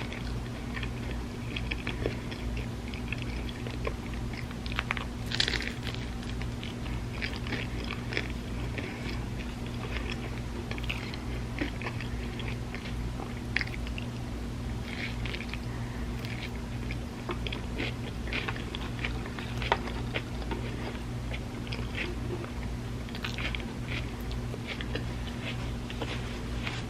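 Close-miked chewing and crunching of loaded avocado toast on sourdough: irregular crisp bites and mouth sounds over a steady low hum.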